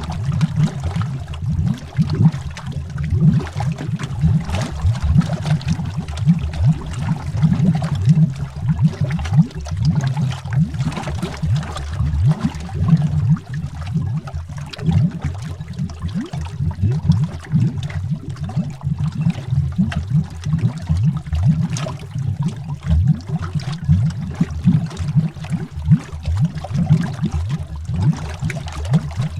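Underwater bubbling: a dense, continuous stream of short, low bubble pops, many a second, with a faint hiss above them.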